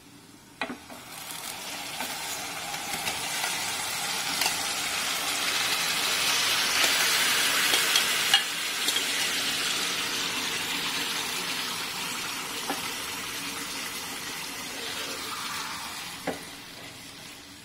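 Green-marinated chicken sizzling as it goes into hot oil and fried onions in a metal pan. The sizzle builds for several seconds, is loudest about halfway through, then eases off, with a metal spoon knocking against the pan a few times.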